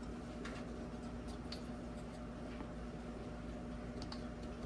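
A few faint, light clicks and taps of plastic headlight parts being handled, over a steady low hum.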